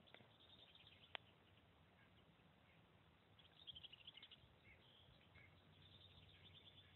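Near silence with faint birds chirping in the distance, most clearly from about three and a half to four and a half seconds in. A single sharp click comes about a second in.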